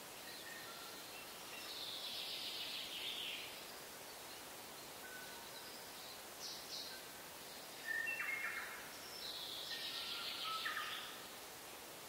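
Birds singing: a longer song phrase about two seconds in and another about nine seconds in, with a few short calls between, over a steady hiss.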